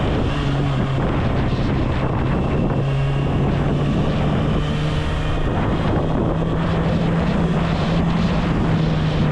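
Kawasaki Ninja ZX-6R's inline-four engine running at a steady cruise, its pitch stepping up slightly a few times, under heavy wind noise on the microphone while riding.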